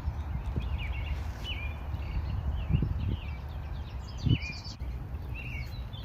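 Songbirds chirping: short, repeated calls, several in each second, over a steady low rumble, with two dull thumps about three and four seconds in.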